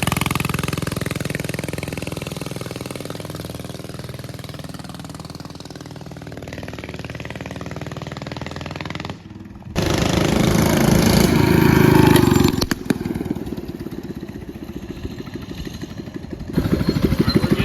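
Coleman mini bike's small engine running, its pitch shifting and its level slowly fading. After a sudden break about nine seconds in, a louder low vehicle rumble takes over.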